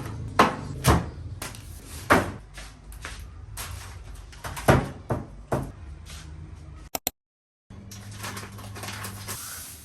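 A series of sharp knocks and clacks, like things being handled, over a steady low hum, broken by a brief dead silence about seven seconds in.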